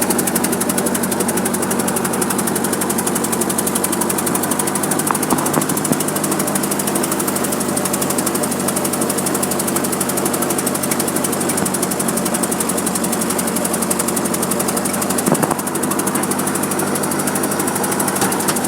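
Case 1530B skid steer loader's engine running steadily at a fast, even beat, with a couple of brief clicks.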